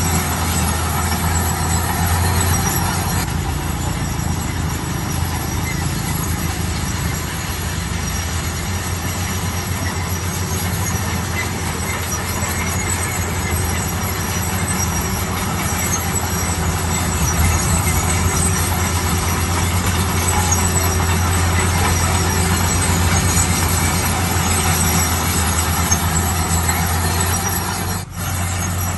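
Heavy diesel construction machinery running steadily under load, a deep engine drone with continuous mechanical grinding and squealing noise. It cuts out briefly near the end.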